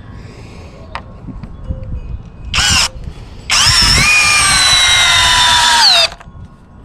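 Power drill driving a 3-inch decking screw into a 2-inch lumber board: a short spin, then a longer run whose motor whine sinks slowly in pitch before cutting off.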